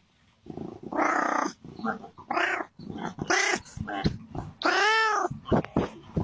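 Domestic cat crying in a string of short yowls, with one long meow near five seconds in that rises and then falls in pitch.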